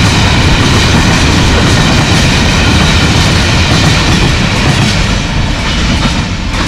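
Empty freight train of covered wagons rolling past at about 50 km/h, its wheels running loudly on the rails; the noise eases off near the end as the last wagon goes by.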